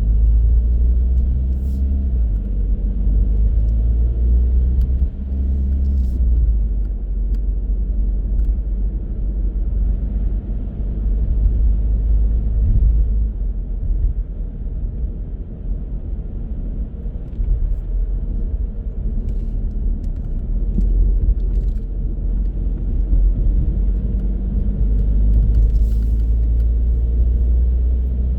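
A car driving along: a steady low rumble of engine and road noise, with the engine note changing pitch now and then.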